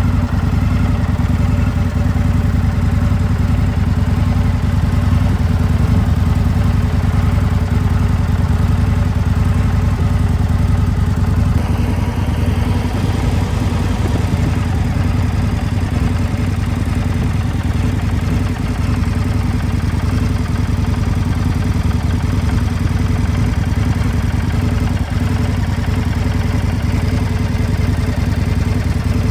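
Indian Scout Bobber Limited's V-twin engine idling steadily.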